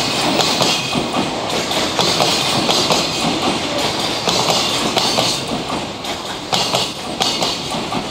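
Container wagons of a long freight train rolling past, steel wheels running on the rails with a steady clatter of small knocks.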